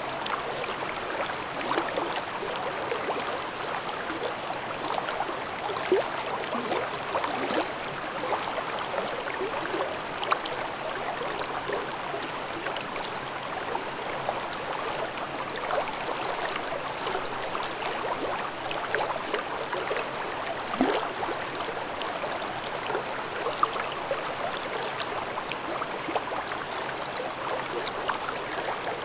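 Babbling mountain stream: water running and gurgling steadily over rocks, with small splashes and plops.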